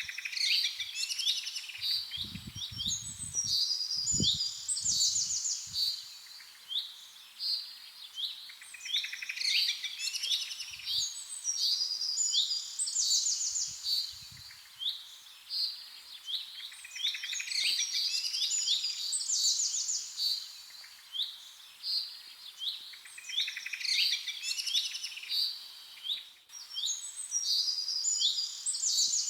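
Songbirds singing and chirping, many short phrases overlapping in a steady chorus. A few soft low knocks come in a few seconds in.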